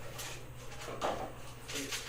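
A few short rustles and scrapes of things being handled, a little after the start, about a second in and near the end, over a steady low hum.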